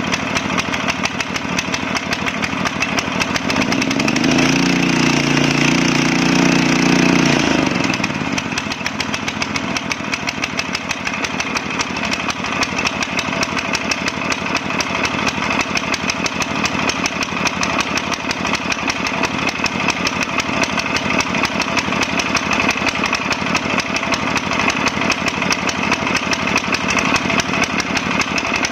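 Rotovator's small carbureted gasoline engine running steadily. About four seconds in it revs up, holds the higher speed for a few seconds, then drops back to its slower running speed.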